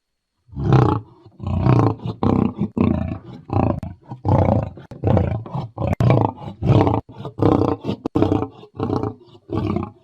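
Lion roaring: a long bout of deep, repeated roars and grunts, about two a second, starting about half a second in.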